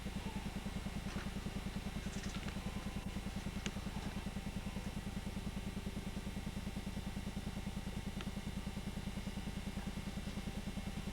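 A steady low hum that pulses rapidly and evenly, with a few faint clicks over it.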